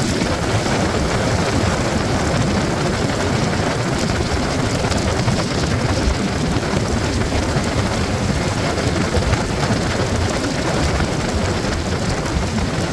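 Riding noise on a Yamaha MT-03 motorcycle at speed: a steady rush of wind over the microphone, heavy in the low end, with the bike's engine and road noise blended underneath.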